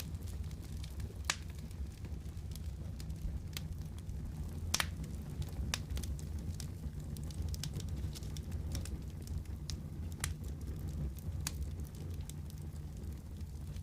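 Wood fire in a fireplace crackling: sharp, irregular pops and snaps over a steady low rumble, with a louder pop a little over a second in and another near the five-second mark.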